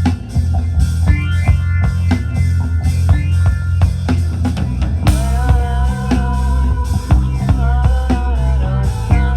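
Live rock band playing an instrumental passage: drum kit keeping a steady beat over bass and guitar. About five seconds in, a cymbal crash comes with a held lead melody with bending notes.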